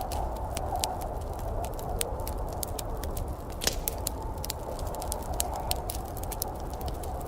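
Wood fire crackling in a fireplace, with frequent sharp irregular pops and snaps over a steady low rushing noise.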